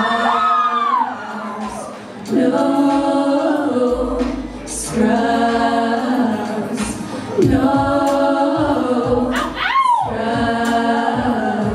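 A group of women's voices singing in chords, a cappella, in long held notes that break and start again every two or three seconds. One voice sweeps up high and falls back just before the end.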